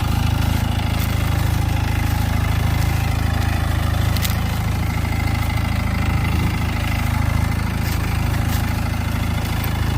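Massey Ferguson mini tractor's diesel engine running steadily at idle, with a few faint clicks in the second half.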